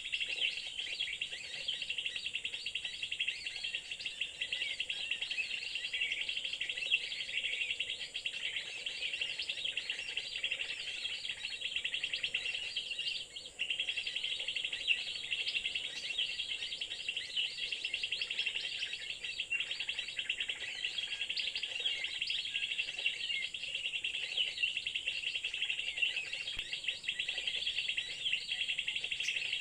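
Dense, continuous high-pitched bird chirping that stops briefly about 13 seconds in.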